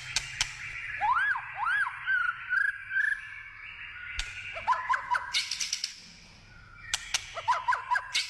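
White-rumped shama singing: clear whistled notes that rise and fall, then quick warbling phrases, mixed with sharp clicks.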